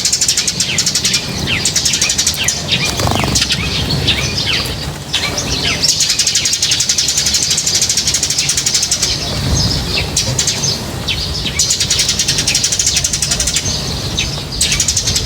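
A flock of small birds chirping: many short high chirps overlapping, with stretches of rapid, even chatter.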